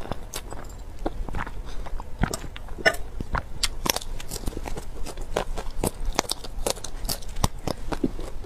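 Close-miked chewing of broccoli florets: irregular crisp crunches and bites, several a second.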